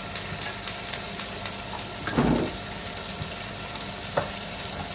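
Chicken pieces frying in butter in a pot over high heat, with a steady sizzle. A quick run of sharp clicks comes in the first second and a half, and a brief louder swell follows about two seconds in.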